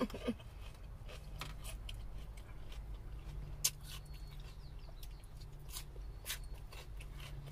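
Close-mic chewing of lettuce salad, with scattered wet mouth-smacking clicks and the light tap of a plastic fork in a plastic container, over a low steady hum.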